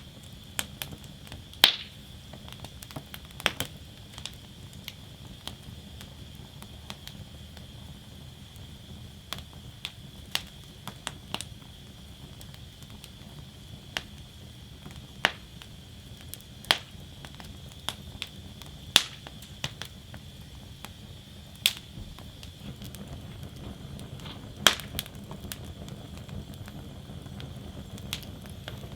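Wood fire burning in a fire basket, crackling with irregular sharp pops and snaps a second or a few seconds apart, over a steady low rumble and hiss.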